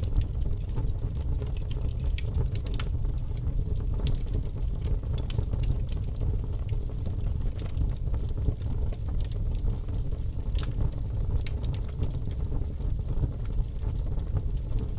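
Campfire burning: a steady low rumble with sharp crackles and pops at irregular moments.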